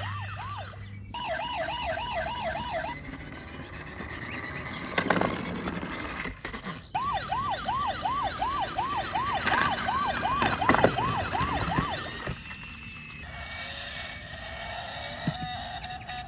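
Electronic toy police-car siren cycling through patterns. A fast warble lasts to about three seconds in. From about seven to twelve seconds in it switches to repeated rising-and-falling yelps, about two a second, with a high warbling tone above. It gives way to a quieter, steadier tone near the end.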